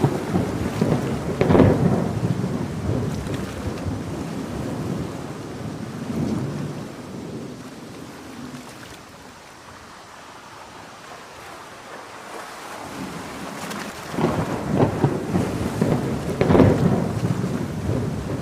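Thunderstorm: heavy rain hissing steadily under rolling thunder. A loud crackling peal at the start dies away over several seconds, and a second peal builds about fourteen seconds in.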